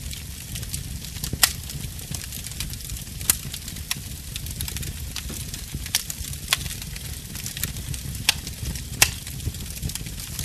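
Wood fire crackling in a fireplace: a steady low rumble and hiss of the flames, with sharp pops of burning wood scattered through, about seven loud ones.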